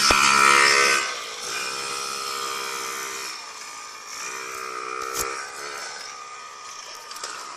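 Yamaha PW50 mini dirt bike's small two-stroke engine revving, loud for the first second and then quieter, its pitch rising twice as the throttle is opened. Two sharp knocks, one at the start and one about five seconds in.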